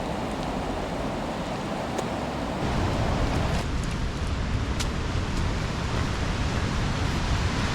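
Steady rush of the River Tees running in spate, with a low wind rumble on the microphone that grows stronger about three seconds in.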